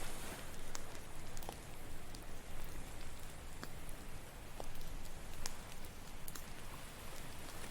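Campfire crackling, with scattered sharp pops and snaps at irregular moments over a steady wash of ocean surf.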